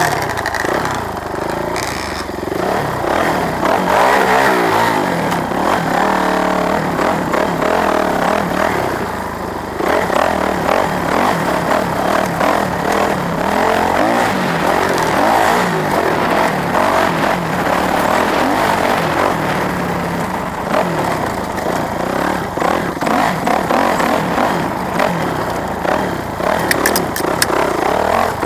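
Motorcycle engine running loudly and revving, its pitch rising and falling.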